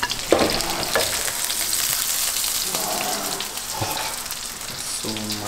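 Food frying in butter in pans on a gas stove, a steady sizzle, with a few sharp knocks of utensils against the pan and plate.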